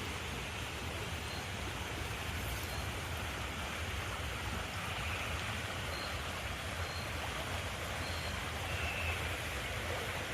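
River water rushing steadily, with a few faint short high chirps over it.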